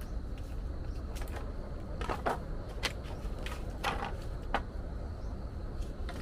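About six irregular sharp knocks and clicks over a steady low rumble.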